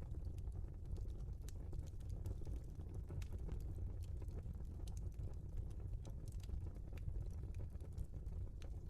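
Wood fire burning in a fireplace: a steady low rumble of flames with irregular, scattered crackles and pops of the burning logs.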